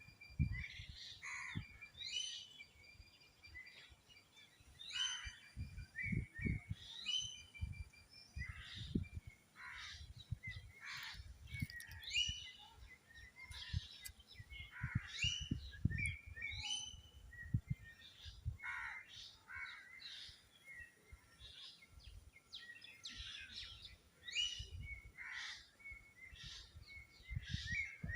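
Birds calling over and over, each call a short downward-sweeping chirp, with several overlapping. There are irregular low thumps and rumbles underneath.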